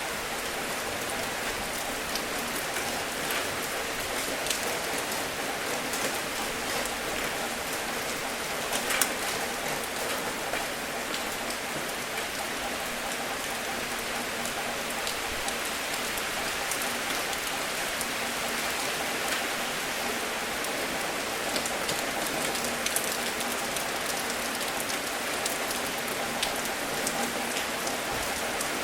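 Steady rain falling on a surface, a constant hiss with many single drops ticking sharply through it.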